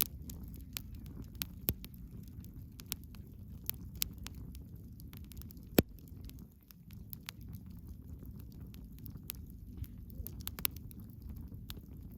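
Wood bonfire crackling: frequent, irregular sharp snaps and pops over a steady low rumble, with one loud pop about six seconds in.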